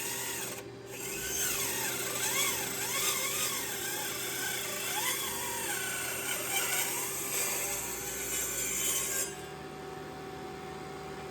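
Mini table saw ripping a strip of black walnut. The motor whine sags and recovers in pitch as the cut loads the blade, which is turned by a simple rubber-band-style belt. About nine seconds in the cutting noise drops away and the saw spins on freely.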